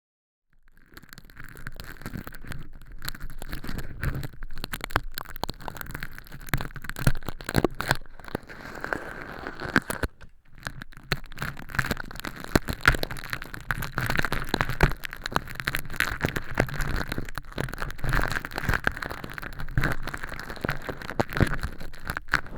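Tweezers picking at and peeling crispy fake earwax made of crinkly holographic film inside a silicone ear model: a dense, irregular run of close-up crackling and crinkling.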